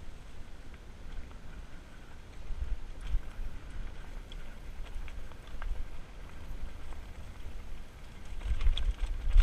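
An e-bike rolling over a rough dirt trail, with wind rumbling on the microphone and scattered clicks and rattles from the bike. A cluster of heavier bumps comes near the end.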